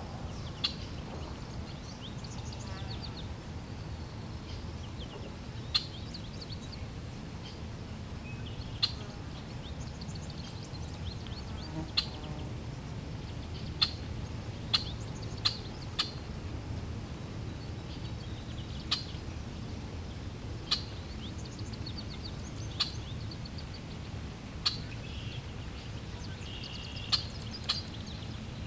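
Steady low rush of flowing water, with small birds giving short, sharp, high chirps every second or two.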